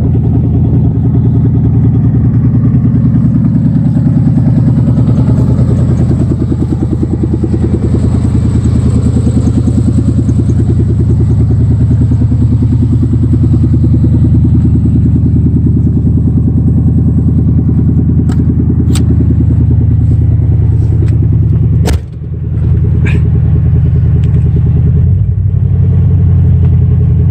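1991 GMC K1500 pickup's V8 idling steadily on a cold start with fresh spark plugs, held at a slightly high cold idle. A few sharp clicks and one knock come late on.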